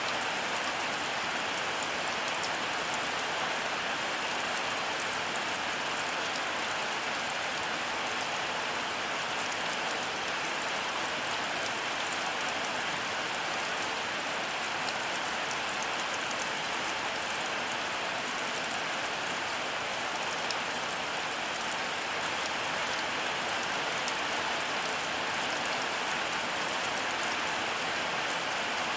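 Heavy rain falling steadily, a dense patter of drops hitting surfaces without let-up.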